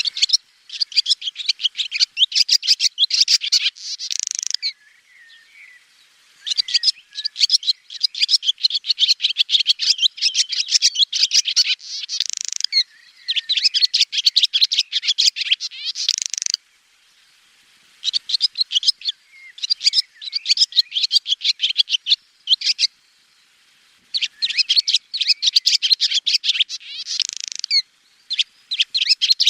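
Swallow song: bouts of rapid, high twittering and chirps, each lasting a few seconds, about six bouts separated by short pauses.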